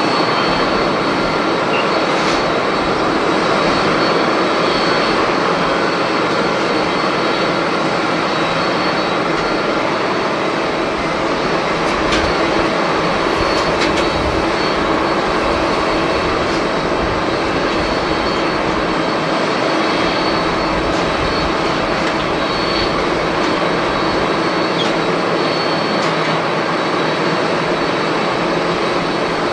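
Jet airliner engines running steadily, a continuous loud rush of engine noise with a thin high whine over it.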